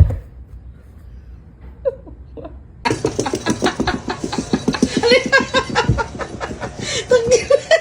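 A sharp thump, then from about three seconds in, hard laughing in rapid bursts that keeps on to the end.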